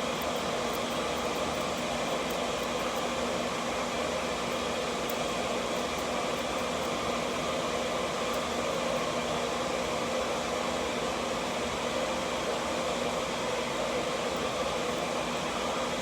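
Steady whirring fan noise that holds unchanged throughout, with a faint steady hum in it.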